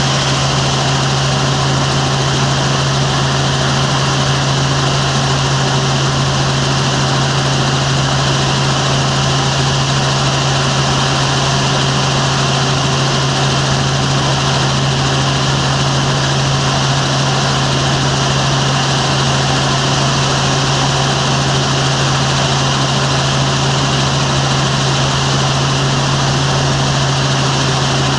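Helicopter running: a loud, steady drone with a strong low hum that does not change.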